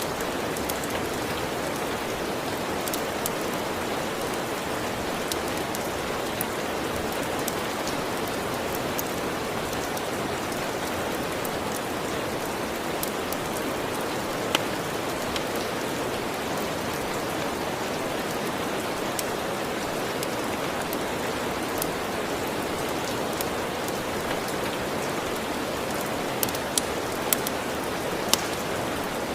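Steady rain falling without a break, with occasional sharp pops of a crackling wood fire, several close together near the end.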